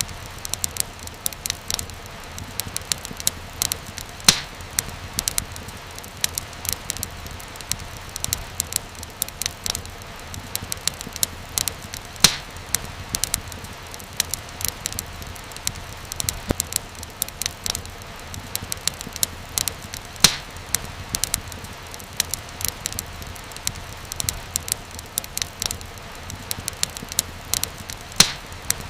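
Wood fire crackling steadily over a low hiss, with frequent small snaps and a few louder pops.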